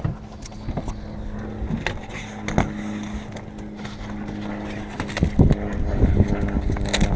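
An engine running steadily at idle as a low hum, with scattered knocks and thumps over it, the thumps busier from about five seconds in.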